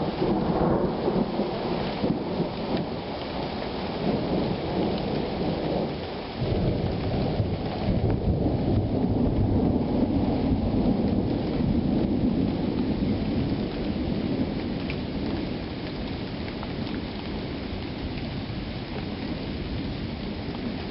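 Summer thunderstorm: steady rain falling, with a long low roll of thunder that swells about six seconds in and slowly fades.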